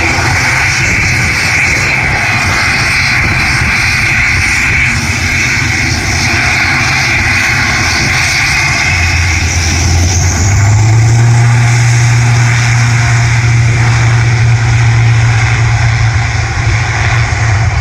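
Aircraft engines running loud and steady, with a high whine early on and a deep low hum that comes in about ten seconds in.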